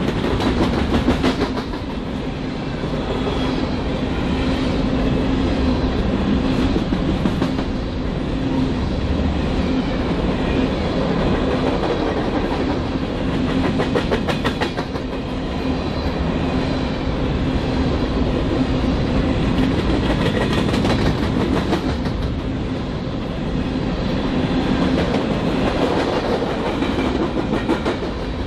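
BNSF freight train rolling past at speed with a steady rumble, its wheels clicking over rail joints in recurring clusters as the cars go by.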